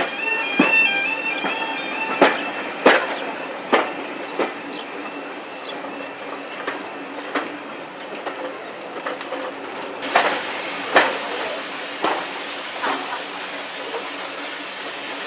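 Train running on rails: wheels clicking over rail joints, often in pairs, over a steady rumble, with a brief high wheel squeal in the first couple of seconds.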